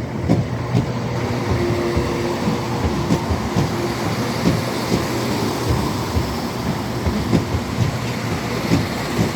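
Electric multiple-unit passenger train running along the platform. Its wheels knock irregularly over rail joints and points above a steady rumble and hum.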